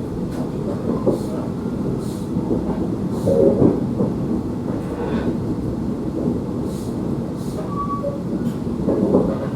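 Running noise of a KTM sleeper train coach in motion: a steady low rumble with faint ticks from the wheels.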